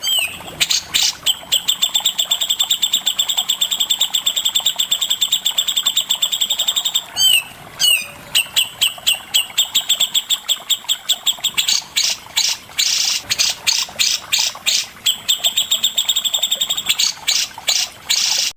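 A songbird singing long runs of rapid, repeated high notes with short breaks between them: a fast rattling 'besetan' trill from a masteran song recording, either of the cucak jenggot (a bulbul) or of the cendet (long-tailed shrike).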